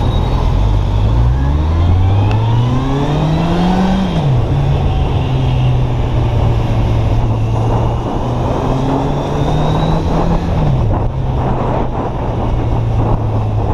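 Kawasaki Z800's inline-four engine pulling at low revs while riding. Its note rises for about four seconds, falls back, holds steady, then rises again and falls back about eleven seconds in, over a steady rush of wind and road noise.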